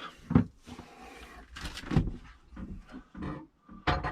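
Irregular knocks, clatters and scraping of plastic toilet parts being handled, a few sharp knocks standing out among quieter rustling.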